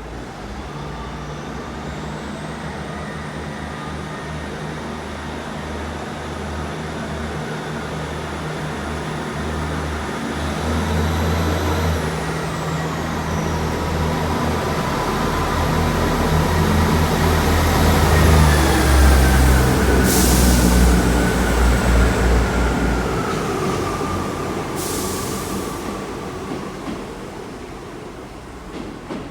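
Diesel train's engines running as it moves through the platform, growing louder to a peak and then fading, with a high thin whine that rises early on and falls away later. Two short hisses of released air come about 20 and 25 seconds in.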